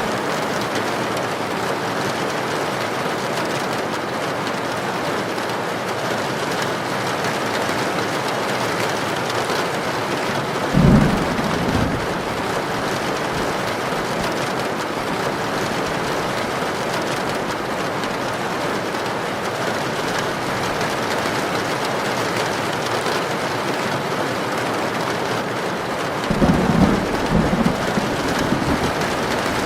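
Heavy rain falling steadily. Low thunder rumbles over it twice: a short one about a third of the way in and a longer, rolling one near the end.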